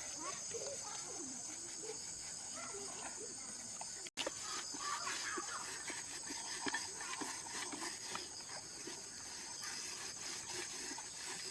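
Steady high-pitched chorus of crickets or cicadas, with chickens clucking in the first few seconds. After a brief cut about four seconds in, light scattered clicks and taps sound over the insect chorus.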